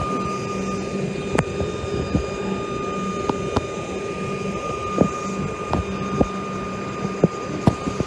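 Electric suburban train drawing slowly into the platform after its motor whine has wound down: a steady electrical hum and a high steady whine, with sharp clicks and knocks coming irregularly about once a second.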